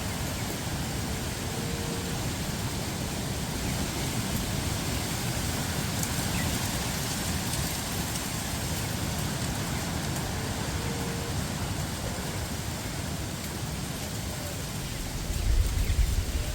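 Steady rushing wind, with gusts buffeting the microphone in low rumbles near the end.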